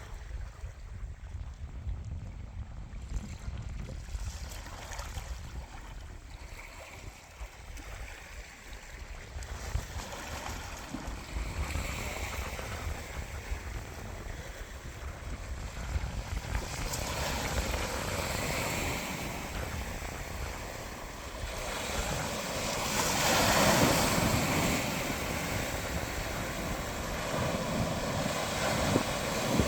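Atlantic Ocean waves washing in as surf, with wind buffeting the microphone. The wash swells louder in the second half, with the biggest surge about three-quarters of the way through.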